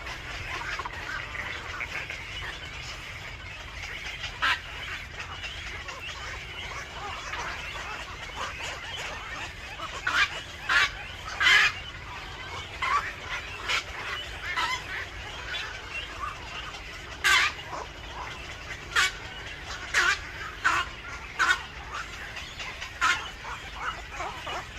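Bird calls: a steady chatter of short chirps, then from about ten seconds in a series of louder, very short calls repeated roughly every second.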